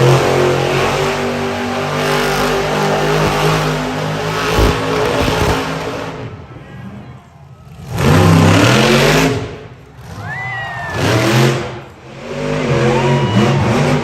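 Monster truck engine revving hard: one long run for about six seconds that fades away, then three shorter, loud revs in the second half.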